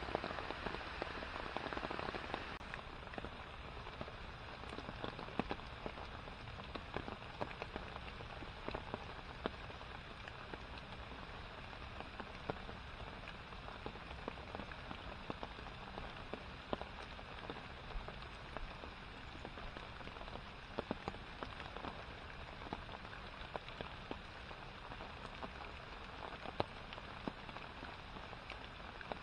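Steady rain falling on a pond's surface and the overhanging leaves: an even hiss with many small drops ticking through it. About two and a half seconds in, it turns abruptly a little softer and stays even.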